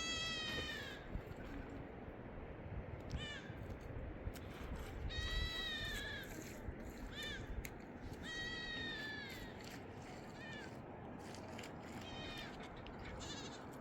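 Young livestock bleating: about ten short, high-pitched calls, several sliding down in pitch at the end, over a steady rushing background noise.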